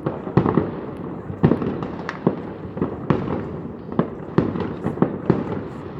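Fireworks going off in a long barrage: sharp bangs at an irregular rate of a few per second over a steady rumble of further explosions.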